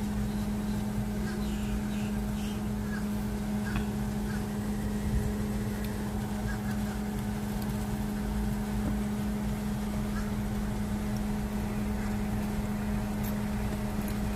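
Steady low hum of a car idling, heard from inside the cabin, with a few faint small clicks over it.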